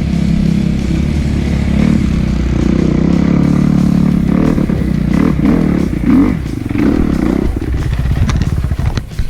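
Kawasaki KX250F four-stroke single-cylinder dirt bike engine running under throttle, heard from the rider's helmet camera. About seven and a half seconds in the engine note drops away, and a few sharp knocks and clatter follow near the end.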